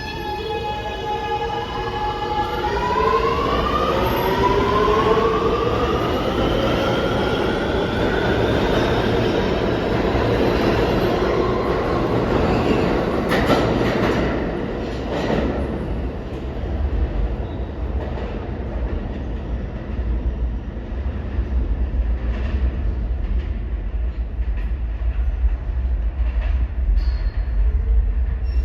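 Subway train accelerating out of the station, its electric propulsion giving several whining tones that climb together in pitch over the first ten seconds over the rumble of the wheels. A few sharp clacks come over rail joints, then it settles into a low rumble.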